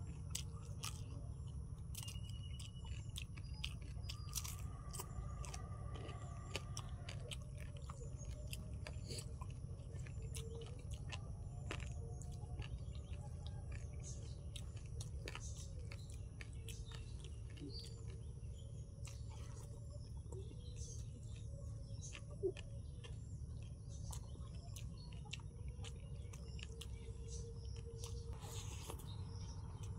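A person chewing mouthfuls of rice and curry, with frequent short wet mouth clicks and smacks scattered throughout, over a steady low rumble.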